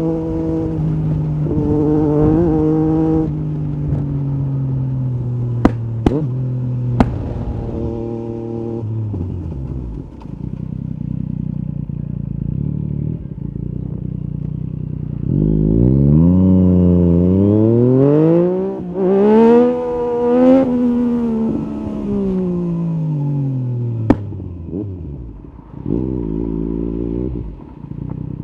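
Yamaha MT-09 SP's three-cylinder engine through an Akrapovic carbon exhaust. It slows with the revs falling, runs low for a few seconds, then accelerates hard with a quick gear change. It decelerates again and gives a short throttle blip near the end. A few sharp cracks come through in the first slow-down and once more during the second.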